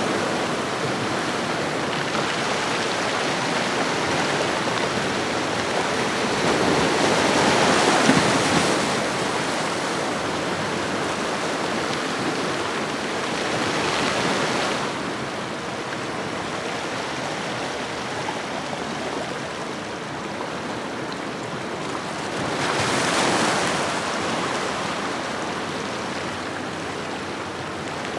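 Ocean waves washing on a shoreline in a steady hiss, with a swell as a wave breaks about seven seconds in, a smaller one around fourteen seconds and another about twenty-three seconds in.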